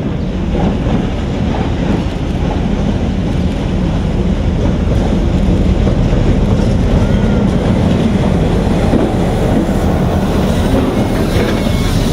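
Train pulling slowly into the station: a steady, loud rumble of the wagons running on the rails that grows slightly louder, with a brief thin squeal near the end.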